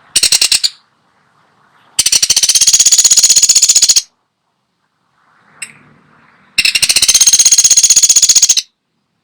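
Pelatuk sampit woodpecker calling in fast rattling trills: a short one at the start, then two long ones of about two seconds each, with pauses between them.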